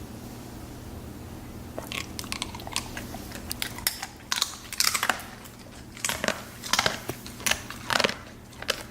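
Siberian husky chewing a dehydrated beef liver treat: irregular crunches beginning about two seconds in, over a faint steady low hum.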